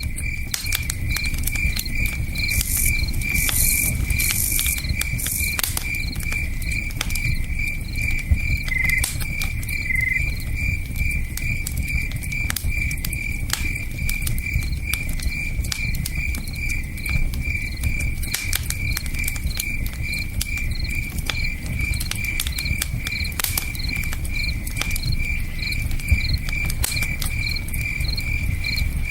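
Campfire crackling with scattered sharp pops over the low, steady rush of a river, while crickets chirp in an even, unbroken rhythm.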